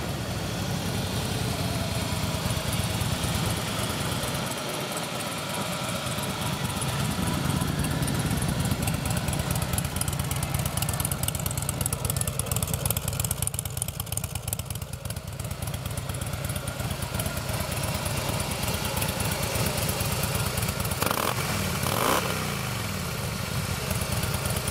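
Harley-Davidson Fat Boy S's Screamin' Eagle 110-cubic-inch V-twin idling, blipped up in revs a couple of times, through the stock exhaust.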